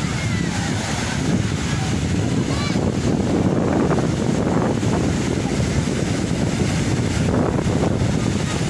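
Wind rushing over the microphone with sea surf washing on the shore, a steady loud noise.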